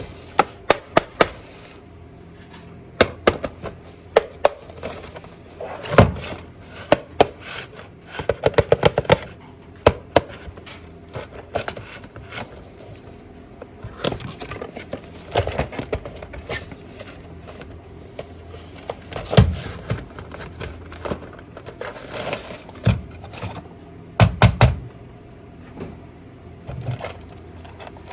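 Hard plastic toy car parts being handled and taken apart by hand: irregular sharp clicks, taps and small rattles, with quick bursts of several clicks in a row.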